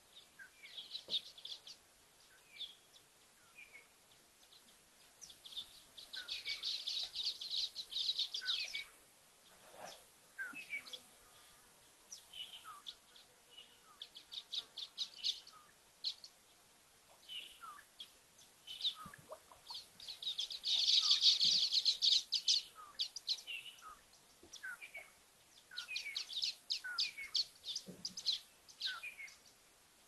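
Birds calling: several bursts of fast, high chattering, each lasting two or three seconds, with single short falling notes scattered between them.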